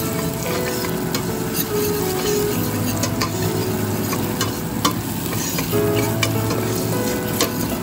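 Sliced onion and garlic sizzling in oil in a stainless steel pot, with a spoon stirring and scraping the metal, giving scattered sharp clicks over a steady sizzle.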